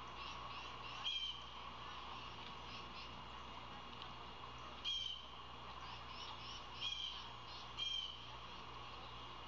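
Wild birds calling around the nest: a short, sharp call repeated four times (about a second in, near the middle and twice toward the end), over fainter chirping and a steady outdoor hiss.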